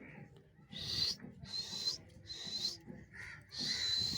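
An angry parrot giving four harsh, hissing calls, each about half a second long.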